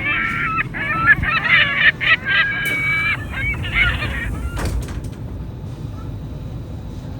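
Geese honking, a run of short repeated calls for about four seconds, then dying away over a steady low rumble.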